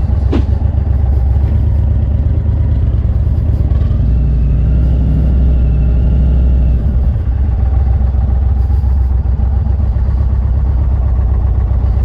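2021 Indian Roadmaster Dark Horse's Thunderstroke 116 V-twin engine running as the motorcycle is ridden, a loud, steady, low sound that grows a little stronger for a few seconds from about a third of the way in.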